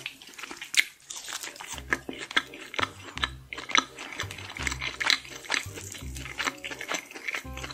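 Close-miked crunching and chewing of crispy fried chicken nuggets, many sharp, irregular crunches, over background music with a steady low beat.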